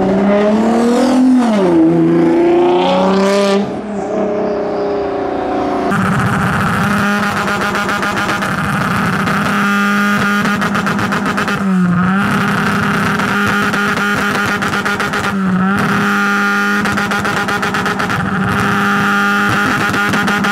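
Modified car engines. One revs up and falls away as it drives past in the first few seconds. Then a steady engine note holds at constant revs for most of the rest, dipping briefly twice.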